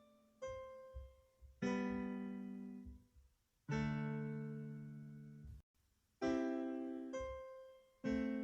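Slow background piano music: single notes and chords struck a few seconds apart, each left to ring and fade, with a brief silence just before the middle-to-late chords.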